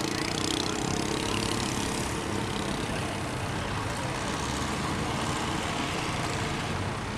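Boat engines running steadily among the boats crowded at the sluice gate, over an even rushing hiss.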